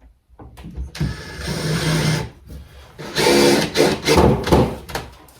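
A small handheld power tool running in two short bursts of a second or two each, about two seconds apart.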